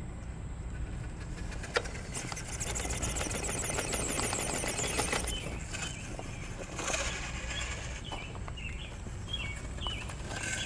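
A 1/10-scale RC rock crawler's electric motor and gears whining in short high buzzes as the truck crawls, with a sharp click about two seconds in and a low outdoor rumble beneath.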